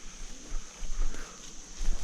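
Footsteps and rustling through woodland undergrowth, with irregular low thumps.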